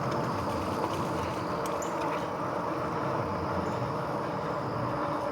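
RadRover 5 e-bike under way: steady rolling noise of its fat tyres on a wet trail, with a faint steady whine from the hub motor. A few light clicks come about two seconds in.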